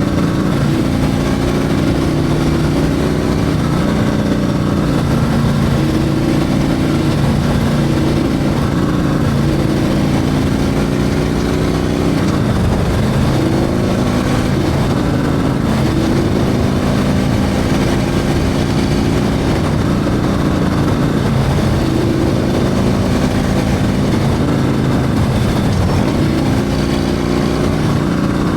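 Harley-Davidson Milwaukee-Eight 114 V-twin with a Screaming Eagle 447 torque cam, running loud and steady as the bike is ridden, its pitch repeatedly rising and then dropping back with throttle and gear changes.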